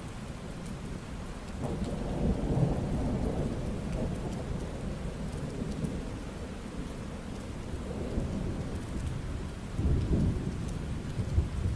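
Thunderstorm: steady rain falling, with low rolling thunder that swells about two seconds in and again near the end.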